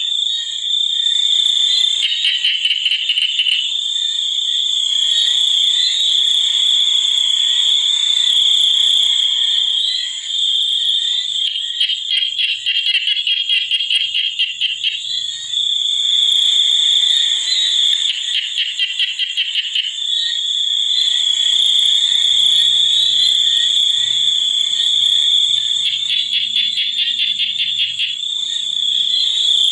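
A steady high-pitched chorus of calling insects, with rapid pulsing trills that come and go every few seconds.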